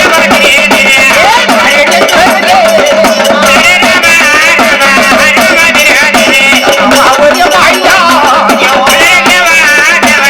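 Marathi devotional folk music: a voice singing a bending melodic line over two steady held drone tones, with fast, continuous jingling hand percussion.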